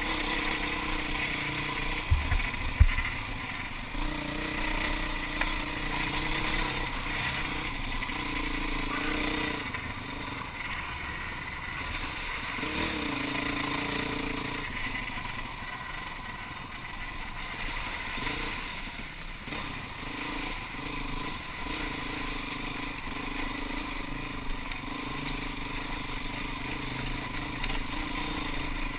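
Enduro dirt bike engine running as it is ridden over a rough rocky track, its revs rising and falling with the throttle. A couple of sharp knocks stand out about two to three seconds in.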